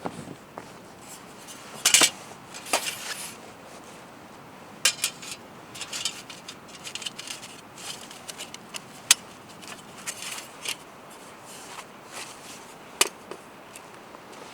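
Cookware and metal utensils being handled: a scattering of sharp clinks, the loudest about 2 s and 13 s in, among softer scraping and rattling.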